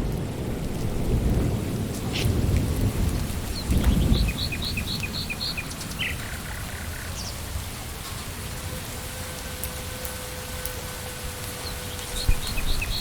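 Steady rain, with a low rumble of thunder through the first four seconds that then dies away. A bird chirps a quick run of short high notes about four seconds in, and again near the end.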